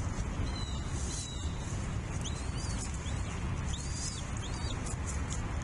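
A few high-pitched bird calls: short level whistles, then several chirps that rise and fall, over a steady low rumble.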